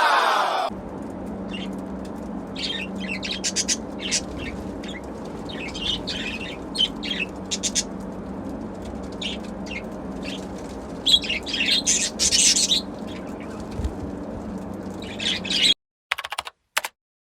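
Pet budgerigars chirping and chattering in short bursts of high chirps over a steady low hum.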